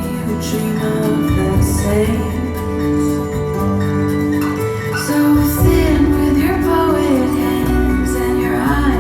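A recorded pop song playing through ELAC BS53 bookshelf speakers, picked up by a phone's microphone in the room. Sustained notes over a shifting bass line, without clearly sung lyrics.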